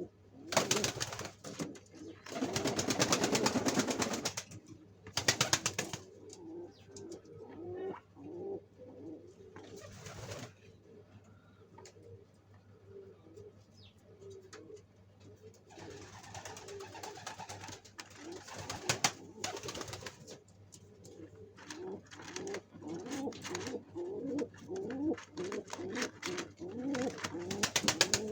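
Domestic pigeons cooing over and over in low rolling calls. Several loud bursts of rustling noise interrupt them, the longest a couple of seconds in and others around 16 to 20 seconds and near the end.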